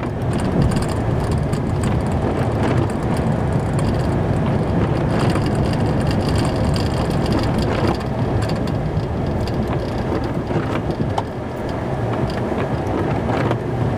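Plow truck driving and pushing heavy, wet snow with its blade: steady engine and plowing noise heard from inside the cab.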